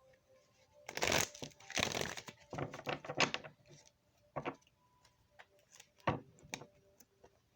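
Tarot cards being shuffled and handled by hand: several short rustling bursts in the first half, then a few single sharp snaps of cards.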